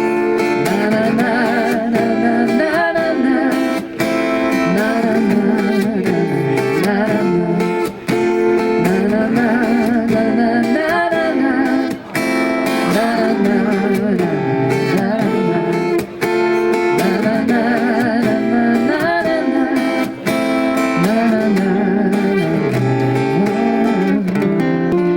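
Acoustic guitar playing with a wordless sung melody over it, in phrases of about four seconds each.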